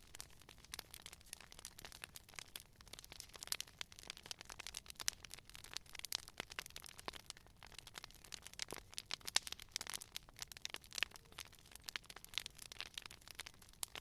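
Wood fire crackling: irregular sharp snaps and pops, several a second, over a faint hiss.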